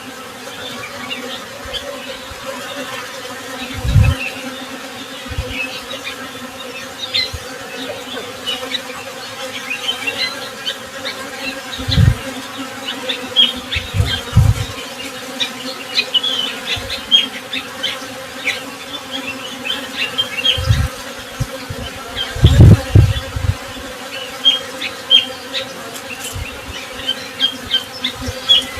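Honey bees buzzing in a steady hum, with short high bird chirps scattered throughout. A few brief low thumps come through, the loudest about 23 seconds in.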